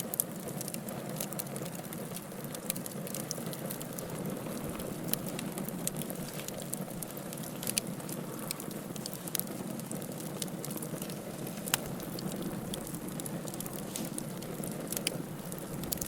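Wood fire burning in a fireplace: a steady low rush of flames with frequent irregular crackles and a few sharper pops.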